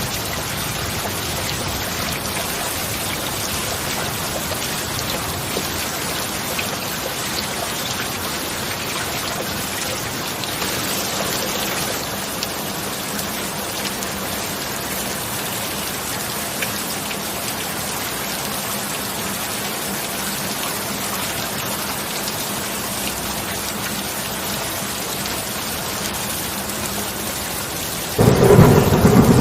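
Steady heavy rain falling, an even hiss of drops. About a second before the end, a loud clap of thunder breaks in suddenly.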